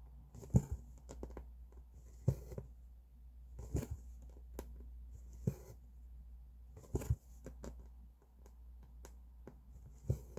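Hand cross-stitching: a needle pushed through the fabric and the thread drawn after it, a short sharp pop with a faint rasp about every one and a half to two seconds.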